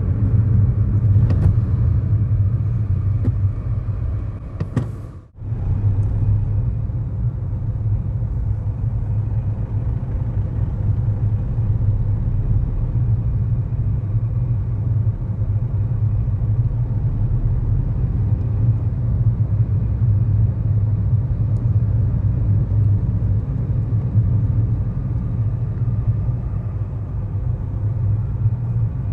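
Steady low rumble of engine and road noise inside the cabin of a 2011 Kia Morning with a 999 cc four-cylinder engine, cruising at road speed. The sound drops out briefly about five seconds in.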